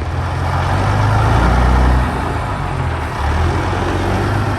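Big-rig diesel truck engine running, swelling to its loudest about a second in and dropping suddenly two seconds in, then rising again a little after three seconds.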